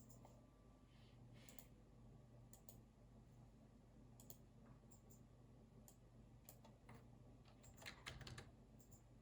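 Faint keystrokes on a computer keyboard, scattered and irregular, with a quick run of typing about eight seconds in.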